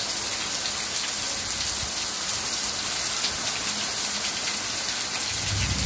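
Heavy rain pouring down steadily, a dense hiss of rain falling on the ground, trees and a metal gate. A low rumble comes in about five seconds in.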